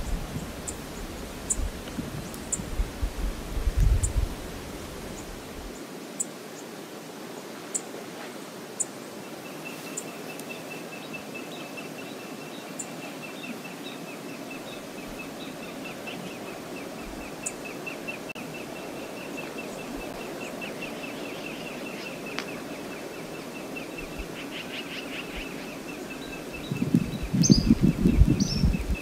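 Outdoor ambience with a small bird's rapid, even-pitched trill repeating from about a third of the way in, and faint high chips. Bursts of low rumble come about four seconds in and again, loudest, near the end.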